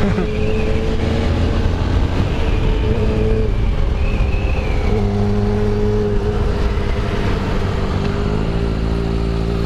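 Honda XRE 300's single-cylinder engine running at road speed, heard from on board over wind rush, its pitch shifting in steps a few times as the revs change.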